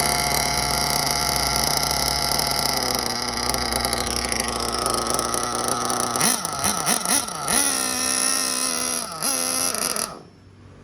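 Small nitro engine of an RC buggy running during break-in: a steady high-revving drone for about six seconds, then several quick blips of throttle rising and falling, a steadier higher note, and the sound cuts off suddenly near the end.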